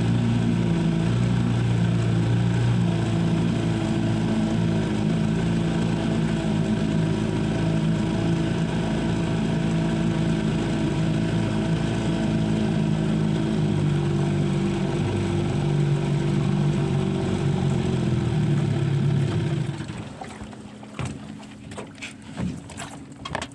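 An engine runs steadily, then shuts off about twenty seconds in. After that only scattered knocks and wind on the microphone are left.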